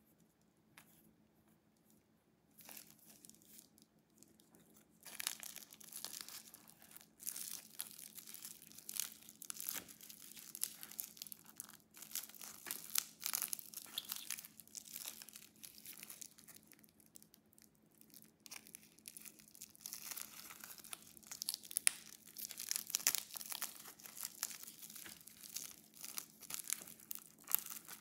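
Packaging being unwrapped by hand: plastic or paper wrapping rustled and torn in a dense run of crackles, starting a few seconds in, with a short lull about halfway through.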